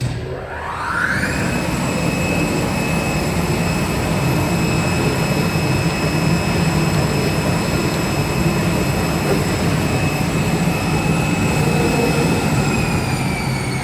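Snowboard topsheet CNC cutting machine running a test cut: a high whine rises quickly as the machine spins up, then holds steady over a loud rushing noise. Near the end the whine starts to drop in pitch as the machine winds down.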